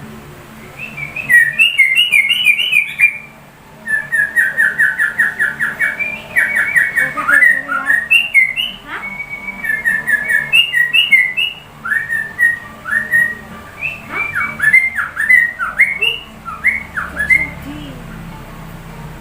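Trucuk (yellow-vented bulbul) singing a long run of rapid, repeated whistled notes and phrases copied from a white-rumped shama (murai batu) song. The song breaks off briefly about three seconds in and stops shortly before the end.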